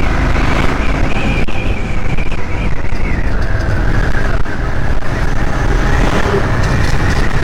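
Royal Enfield Scram 411 single-cylinder motorcycle riding along the road, engine running steadily under dense wind noise on the microphone. A faint whine rides on top and drops in pitch about three seconds in.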